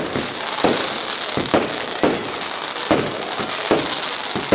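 Fireworks going off: a run of sharp bangs, roughly one every three-quarters of a second, over a steady crackling hiss.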